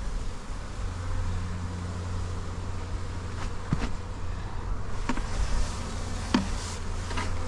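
Steady low hum of a mass of honey bees buzzing around a hive, with a few faint clicks.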